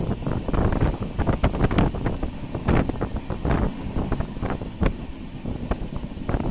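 Express train running at speed, heard from its open coach doorway: wind rushing over the microphone over an irregular, rapid clatter of knocks from the wheels and coach running over the track.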